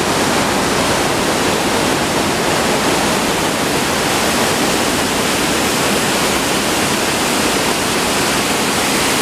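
Loud, steady rush of a fast-flowing stream fed by a waterfall, its current strong enough to drown out talk.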